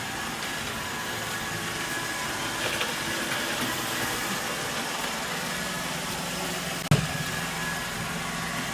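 iRobot Roomba E5 robot vacuum running with a steady motor hum. A single sharp knock about seven seconds in.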